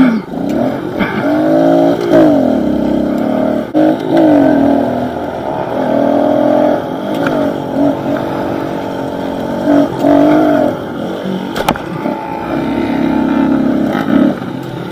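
Pit bike engine revving up and dropping off again and again as the bike is ridden, the pitch climbing and falling several times.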